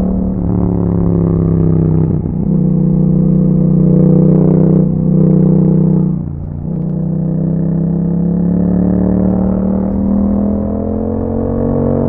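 Yamaha MT-07's parallel-twin engine through an Akrapovic exhaust, running under way. Its pitch falls over the first two seconds and dips briefly three times, then climbs slowly and steadily as the bike pulls.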